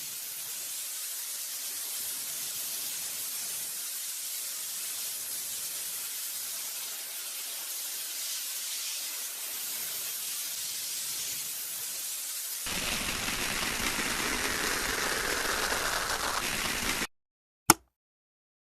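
A steady hiss lasting about thirteen seconds, mostly high-pitched. It switches abruptly to a louder, coarser rushing noise that cuts off suddenly, followed by two sharp clicks near the end.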